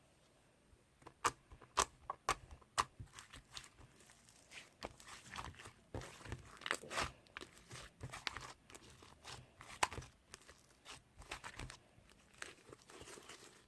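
Slime being squished and pressed by hand, giving irregular sharp clicks and pops that start about a second in.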